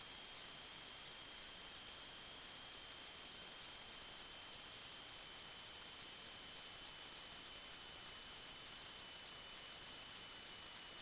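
Steady high-pitched whine at two fixed pitches, with a faint rapid flicker.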